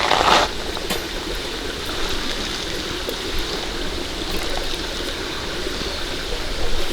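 Steady rushing water noise, with a brief louder swish right at the start and another near the end.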